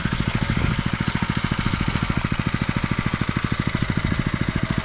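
Small engine running steadily at a fast, even beat.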